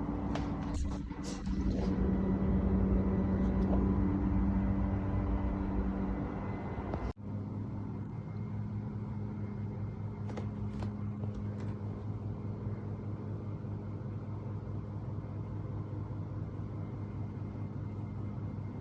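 Steady low machine drone with a held, pitched hum, from construction machinery heard through the building. A few light clicks near the start, and a sudden break about seven seconds in before the drone resumes.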